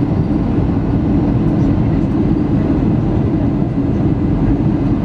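Steady cabin rumble inside an Airbus A320 airliner: engine and airflow noise heard from a passenger seat.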